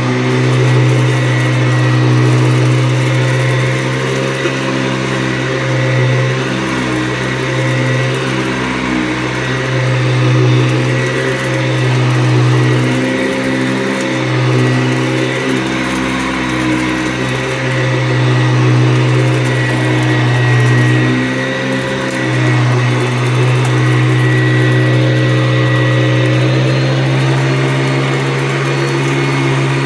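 Motor of a 1985 Hoover Decade 80 upright vacuum cleaner running steadily with a thin high whine; its pitch rises slightly near the end.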